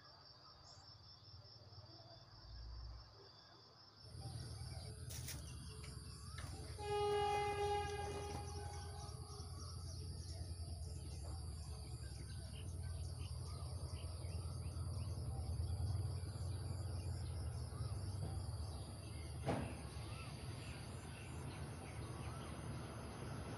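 Crickets chirping. After a cut, a low rumble of an approaching diesel train grows louder toward the end, with one horn blast of about a second and a half a few seconds after the cut and a steady high insect whine over it all.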